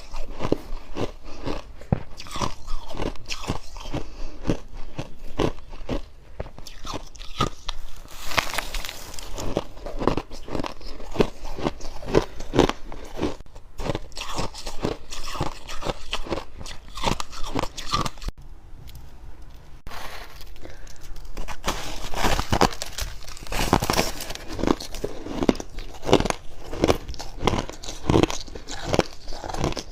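Close-up biting and chewing of dry, fluffy freezer frost: rapid crisp crunches, several a second, with a short pause about two-thirds of the way through.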